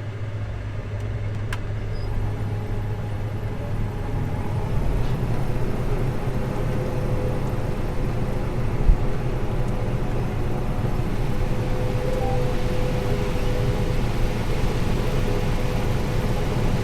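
Harvest machinery engine running steadily: a low drone that grows a little louder over the first few seconds, with a steady whine setting in about six seconds in and one brief thump near the middle.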